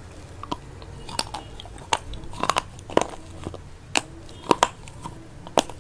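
A person chewing a mouthful of vegetable chow mein, with eight or nine short, sharp crunches at irregular intervals from the crunchy noodles and vegetables.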